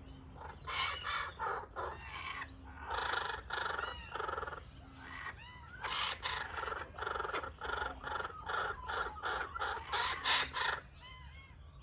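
Laughing kookaburras calling in a long run of harsh, cackling notes that repeat about twice a second, with rising and falling hoots running through them.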